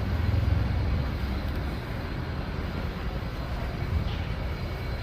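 Steady low rumble of a vehicle in motion, loudest in the first second and a half and then easing to a lower, even level.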